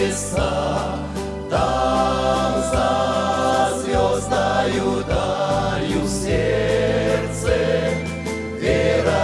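Group of voices singing a hymn in unison and harmony over instrumental accompaniment, the bass notes changing every second or so.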